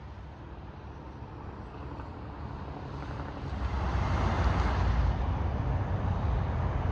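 A semi truck on the interstate approaching and passing, its tyre and road noise and low engine rumble growing steadily louder and peaking about four to five seconds in.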